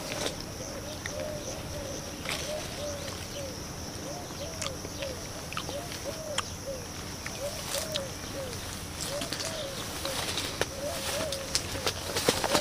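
A dove cooing: a long series of short coos, each rising and falling in pitch, repeated steadily. Behind it there is a steady high-pitched hum, and scattered sharp clicks grow more frequent near the end.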